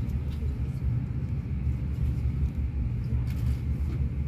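Steady low rumble of an InterCity train running along the track, heard from inside a passenger coach, with a couple of faint ticks.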